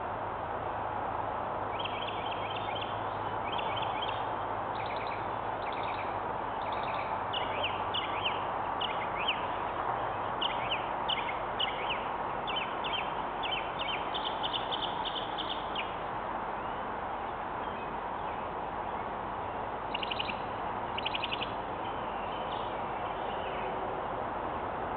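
Birds chirping in series of short, quick notes over a steady background hiss, busiest from about two seconds in until about sixteen seconds, with another short burst of chirps around twenty seconds.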